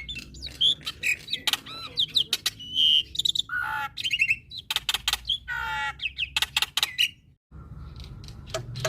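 Male black-winged myna (jalak putih) singing a fast, varied song of sharp clicks, whistled notes and harsh chatter. The song breaks off for a moment about seven and a half seconds in, then starts again.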